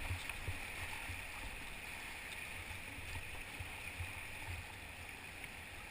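Steady rush of whitewater river water, with irregular soft low thumps.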